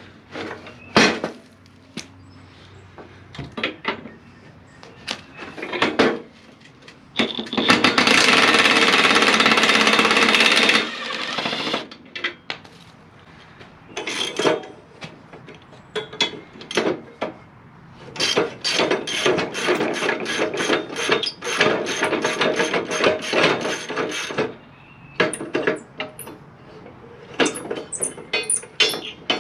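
Impact wrench hammering for about three and a half seconds on a riding-mower deck's blade spindle nut, among scattered clanks and knocks of tools on the steel deck. Later a long stretch of rapid metallic clicking, then more sharp clicks near the end.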